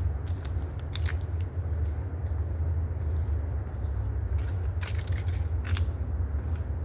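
Footsteps crunching on dry leaf litter and twigs along a woodland trail: irregular crackling steps, with the clearest ones about a second in and around five to six seconds in, over a steady low rumble.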